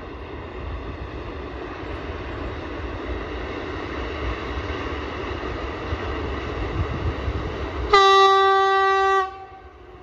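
A train approaching, its rumble growing slowly louder, then one blast on the train horn, a single steady note of about a second, near the end.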